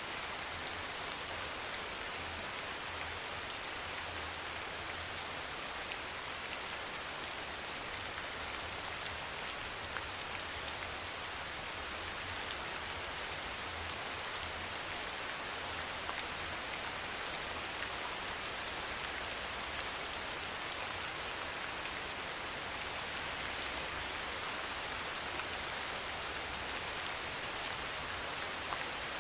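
Steady soft rain falling, an even hiss with scattered small drop ticks.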